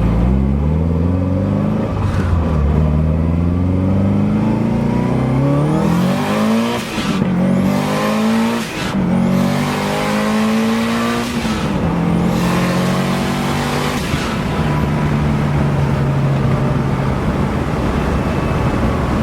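Car engine accelerating hard through several gears, rising in pitch in each gear with a short dip at every shift, heard from inside the cabin. For the last few seconds it settles to a steady cruise.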